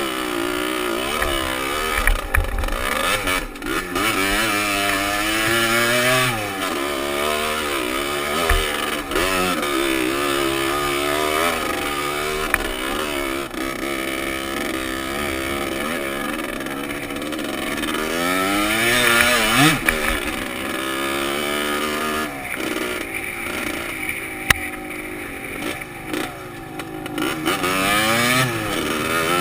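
Dirt bike engine revving up and down over and over as it is ridden along a trail, picked up by a helmet-mounted camera, with a few sharp knocks along the way.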